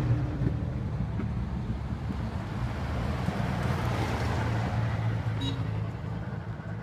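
Jeep engine running steadily: a low drone under a rushing noise of wind and road.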